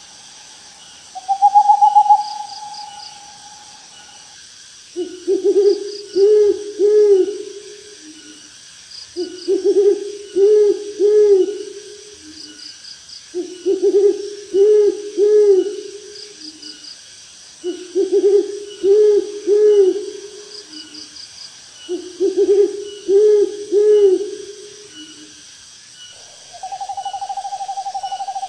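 An owl hooting in five repeated phrases of several quick hoots, one phrase about every four seconds, with a longer, steady, higher-pitched call near the start and again near the end. Insects chirp faintly and rhythmically behind it.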